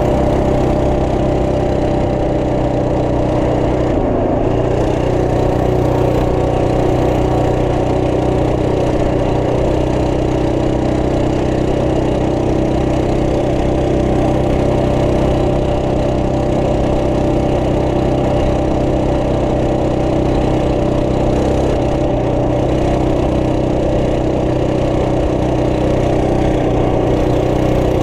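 Trail Master MB200 minibike's 212cc single-cylinder engine running at a steady pitch, with a brief dip in pitch about four seconds in.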